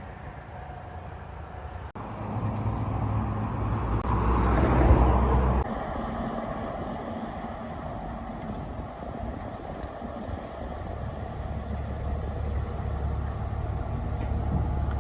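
A vehicle's low, steady engine and road rumble. It grows louder about two seconds in, and a louder hissing surge about four to five and a half seconds in cuts off suddenly.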